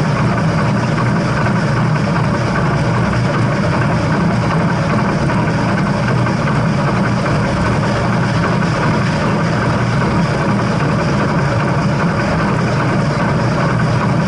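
Steady, loud running noise of a heritage steam train in motion: a continuous rumble with no distinct chuffs or whistle.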